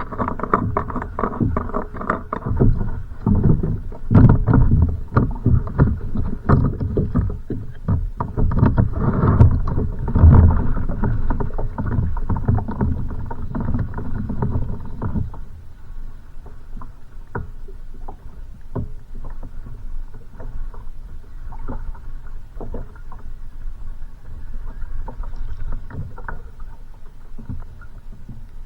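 Choppy waves slapping and knocking against a kayak's hull, a busy run of splashes and thuds that eases off about halfway through.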